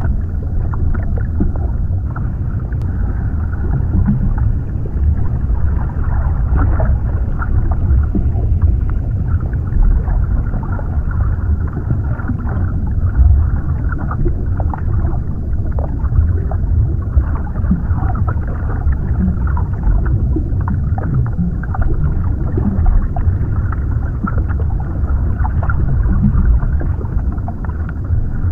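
Underwater ambience: a steady, muffled low rumble with many small pops and ticks scattered through it, and almost nothing in the high range.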